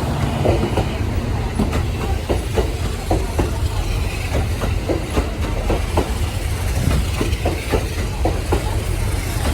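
Kintetsu 80000 series 'Hinotori' electric train running on the rails: a steady low rumble with wheels clacking over rail joints, a few knocks a second.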